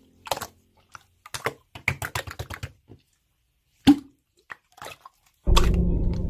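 Slime being pressed and worked by hand, giving a quick run of sharp wet popping clicks, then a few single pops. Music comes in loudly near the end.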